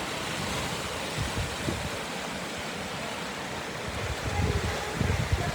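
Steady rushing hiss of a rainy outdoor scene, with wind buffeting the microphone in low rumbles that grow stronger near the end.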